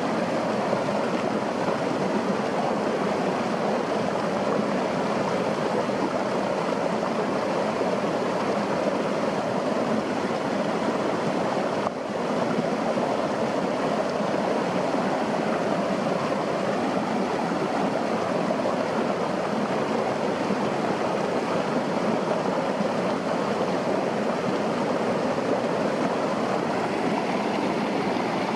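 Steady rushing of flowing water, like a forest stream, with a brief dip about twelve seconds in.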